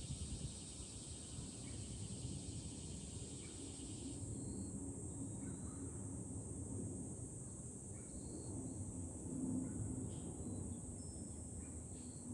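Summer cicadas singing: a steady high-pitched drone, joined by a second cicada's fast pulsing call that stops about four seconds in. Wind rumbles over the microphone underneath.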